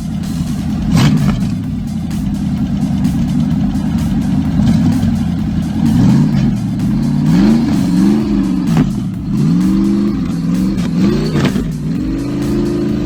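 A car engine runs steadily at first, then revs up and down repeatedly through the second half, its pitch rising and dropping several times as if accelerating hard.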